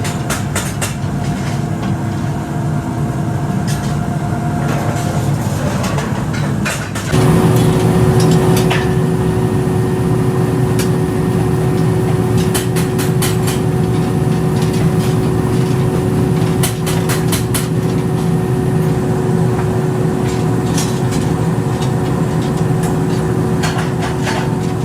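Workshop machinery running steadily with a constant hum and scattered clicks and knocks. About seven seconds in the sound changes abruptly to a louder drone with a slightly different pitch to the hum.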